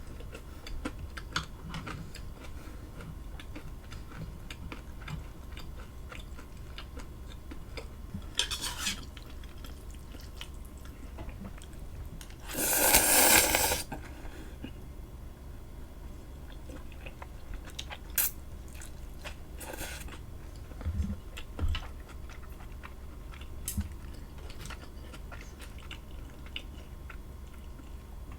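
Close-miked eating: chewing and biting with small clicks of cutlery against a dish. About halfway through comes a louder noisy burst lasting about a second and a half, with a smaller one a few seconds before it.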